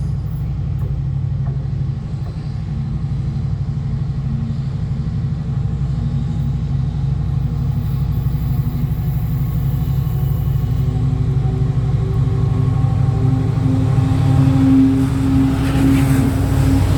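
A train running close by: a steady low rumble with an engine note that climbs slightly in pitch and grows louder towards the end.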